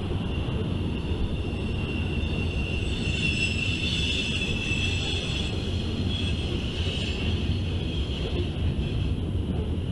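Loaded coal hopper cars rolling past with a steady low rumble, and a high-pitched wheel squeal that swells about three seconds in and fades away after about seven seconds.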